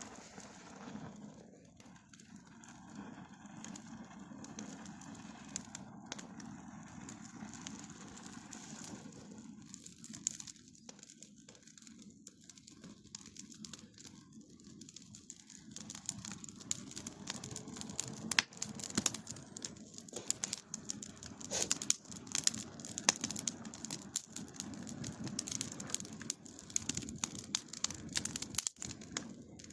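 Bonfire crackling over a steady low rumble. Sharp pops come sparsely at first, then thicken in the second half into a dense run of snaps and cracks.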